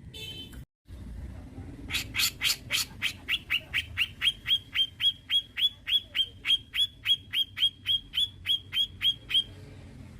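Cucak jenggot (grey-cheeked bulbul) calling a fast, even series of about thirty sharp, downward-sliding notes, about four a second, lasting some seven seconds, after a short call near the start.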